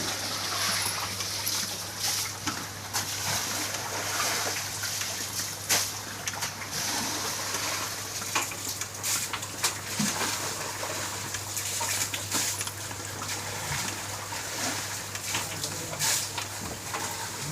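Floodwater splashing and sloshing on a waterlogged street: a steady watery hiss with many short splatters throughout, over a faint steady low hum.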